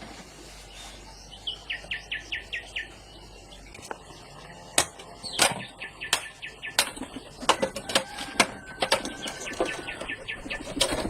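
A bird calls a quick run of about six falling chirps, then irregular sharp knocks and clatter start about four seconds in and become the loudest sound, with more chirps near the end.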